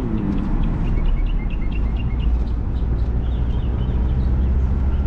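Car driving along a road, heard from inside the cabin: steady low road and engine rumble. A quick run of short high chirps sounds for a couple of seconds near the start.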